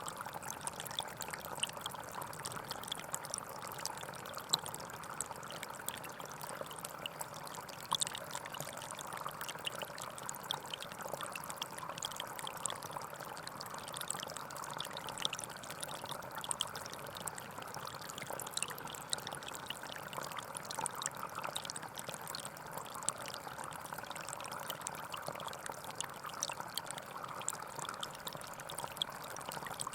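Forest stream running steadily, water flowing and trickling with many small splashes and drips.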